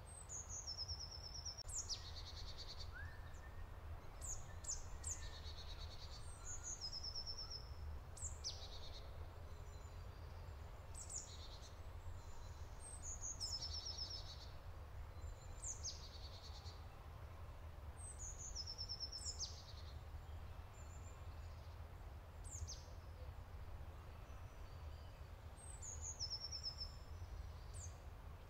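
Songbird singing: short high-pitched phrases, each falling into a brief trill, repeated every two to three seconds, over a low steady rumble.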